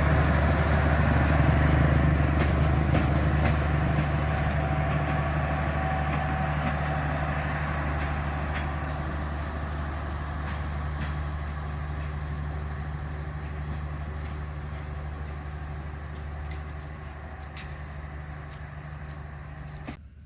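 Diesel-electric D19E locomotive's engine droning steadily and fading gradually as it draws away, with scattered sharp clicks. It cuts off abruptly just before the end.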